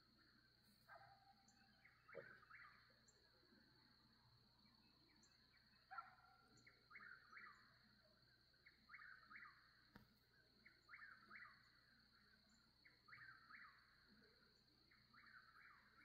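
Faint dusk chorus: a bird calling in short clusters of quick notes every second or two, over a steady high-pitched insect drone.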